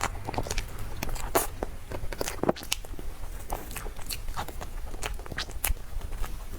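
Close-miked eating sounds of someone biting and chewing a soft dessert: irregular wet mouth clicks and smacks, several a second.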